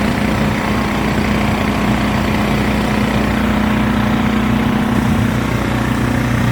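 An engine running steadily: an unbroken drone with a low, even hum.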